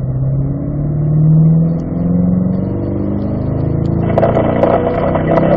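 Chevrolet Corvette V8 engine pulling hard under acceleration. Its pitch climbs, dips about a second and a half in, then climbs again, and a rougher, louder noise joins about four seconds in.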